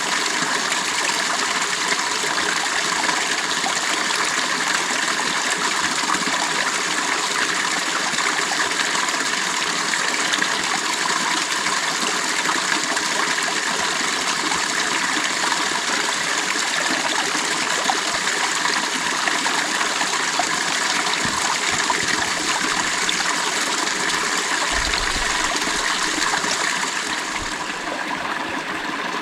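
Creek water flowing over stones, a steady rushing with trickling and splashing. It eases slightly near the end.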